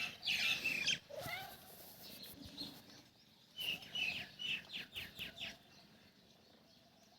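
Bird chirping: high calls near the start, then a quick run of about six short repeated notes a little past the middle.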